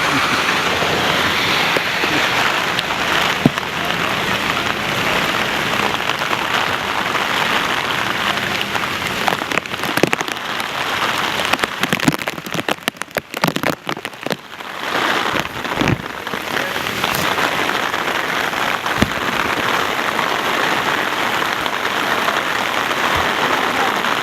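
Heavy rain falling steadily on a city street. Around the middle it briefly thins to scattered individual drop hits for a few seconds, then comes down hard again.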